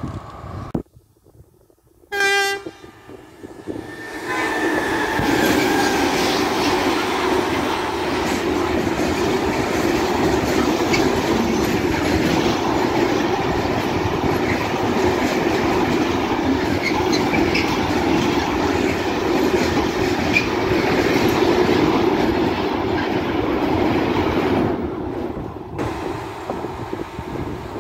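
A freight train sounds a short horn blast about two seconds in, then passes close by with a long, steady rolling noise of container wagons on the rails. The train noise drops off near the end.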